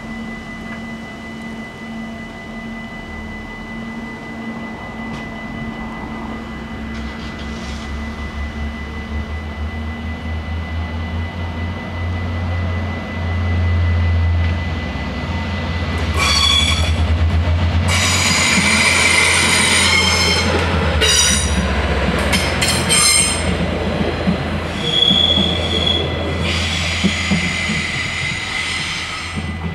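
Stadler GTW diesel multiple unit approaching and passing over a level crossing. Its low diesel rumble builds over the first half, and from about halfway there is high-pitched squealing from the wheels on the rails, over the steady ringing of the crossing's electronic warning bells.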